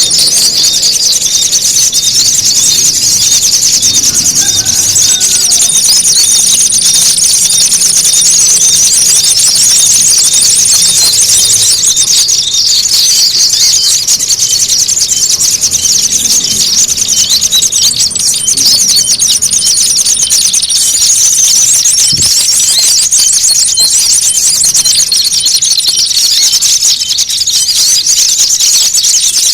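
Bird-luring call track for small birds: a dense, unbroken stream of rapid, shrill chirps and twitters, as in a noisy squabble, with a thin high whistle that fades in and out several times.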